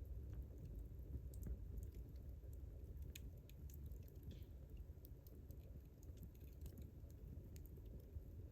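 Wood campfire crackling: scattered small, sharp pops and snaps at irregular moments over a low, steady rumble.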